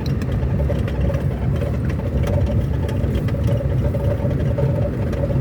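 A car driving: steady engine and road noise, a low drone with a faint steady tone above it and scattered light ticks.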